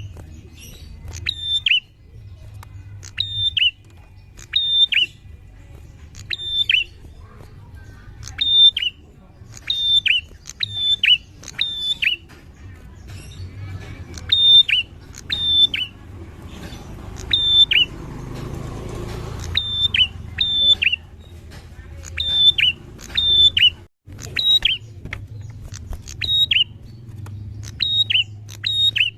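Prinia (prenjak) calling: a loud, sharp downslurred note, mostly given in quick pairs, repeated about once a second. A low steady hum runs underneath, and a short burst of hiss comes about two-thirds of the way through.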